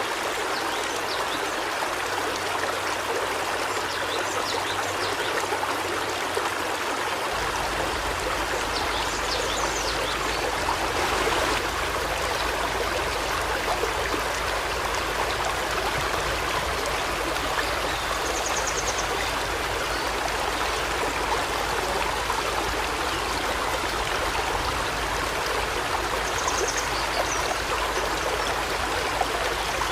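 Steady rushing of a flowing river stream, with brief high bird chirps now and then.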